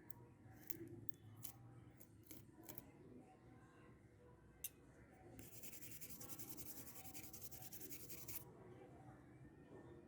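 Faint clicks and light scratching of small hand tools working on a mobile phone. Near the middle comes a faint, rapid, even scraping lasting about three seconds.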